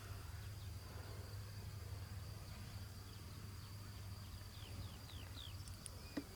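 Faint outdoor ambience: a steady high-pitched insect drone throughout over a low rumble, with a quick run of short, falling bird chirps about two-thirds of the way in and a single click near the end.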